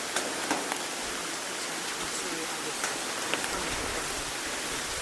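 Steady rain falling, with a few sharp drops striking close by. A low rumble comes in after about three and a half seconds.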